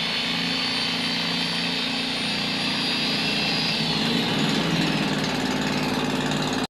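Power Max angle grinder running with a steady high whine after its armature has been replaced; about four seconds in, the pitch drops slightly.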